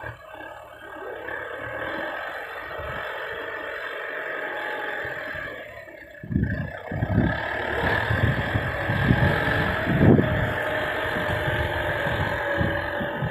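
Dump truck's diesel engine running steadily, becoming louder about six seconds in with uneven low rumbling.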